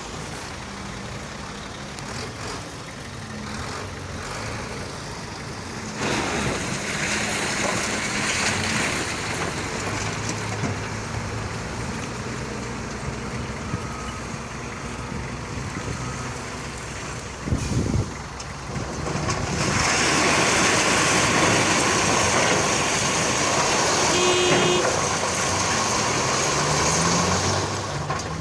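Howo dump truck's diesel engine running steadily, with two long stretches of louder rushing noise over it and a short loud knock about two-thirds of the way through; the engine revs up near the end.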